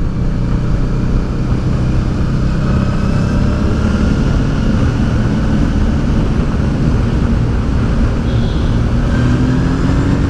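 Honda Deauville motorcycle's V-twin engine running steadily under way, heard from on the bike over a constant rush of wind and road noise. The engine note rises slightly near the end.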